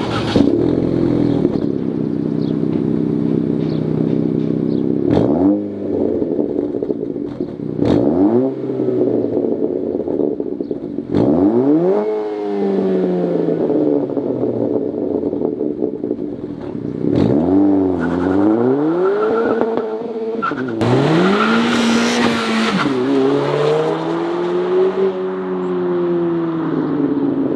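2023+ Acura Integra's turbocharged four-cylinder engine through a 3-inch stainless Thermal R&D exhaust with straight-through, drone-cancelling Helmholtz-chamber mufflers. It idles steadily, then is revved several times, each rev rising quickly and falling back. The later revs are held longer.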